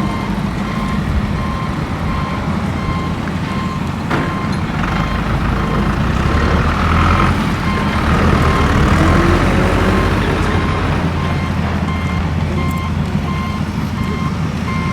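Off-road vehicle engine running under load, louder around the middle as it revs up and settles, with an electronic beeper sounding in steady repeated beeps throughout.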